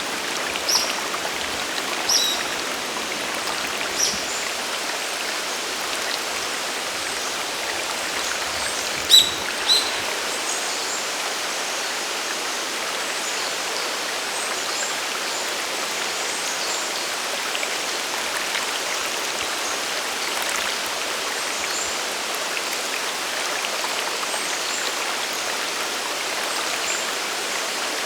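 Steady rush of a mountain waterfall and its stream: an even, unbroken hiss of falling and flowing water. A few brief, sharp high sounds stand out in the first ten seconds, the loudest two about nine and ten seconds in.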